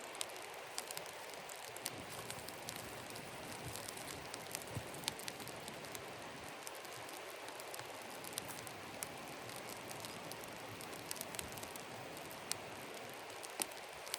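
Campfire of damp wood burning: a steady hiss with frequent sharp crackles and pops scattered irregularly throughout.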